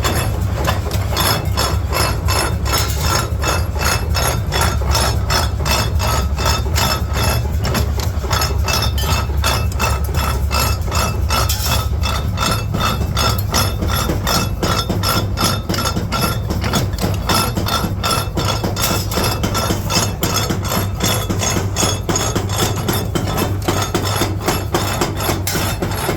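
Hammer striking steel in rapid, even blows, several a second, with a ringing metallic note, over a steady low machine hum, during the forging of a steel masonry trowel.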